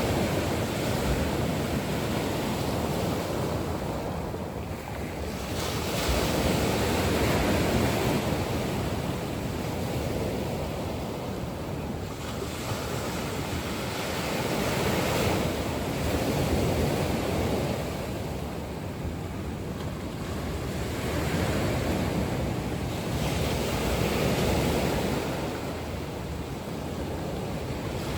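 Sea waves surging in and drawing back in a steady rush of surf, swelling and easing every several seconds.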